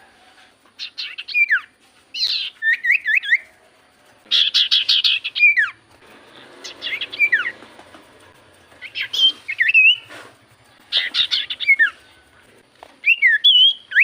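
Common iora (cipoh) singing: phrases of rapid chattering notes and sharp down-slurred whistles, repeated about every one to two seconds with short pauses between.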